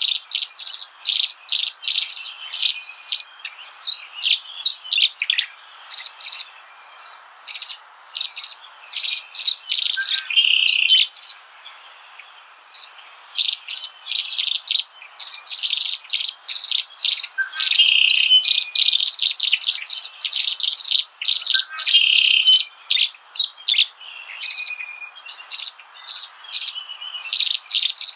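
Small birds chirping: quick, high chirps several to the second, nearly continuous with a couple of brief pauses.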